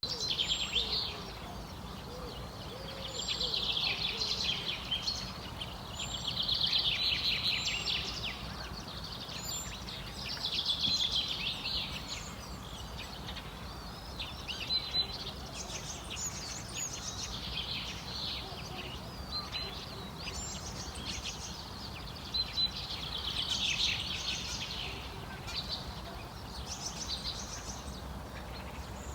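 A large flock of small birds singing and chattering together, the dense calls swelling and fading every few seconds.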